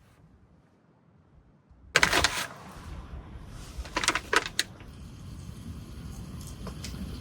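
Near silence, then about two seconds in a sudden steady rumble of wind and rain noise that builds, with a few sharp clicks and knocks around the middle.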